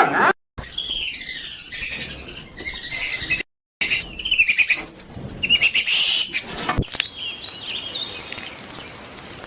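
Small birds chirping, many short high, falling chirps overlapping, cut off by two brief moments of total silence where the clips are edited together.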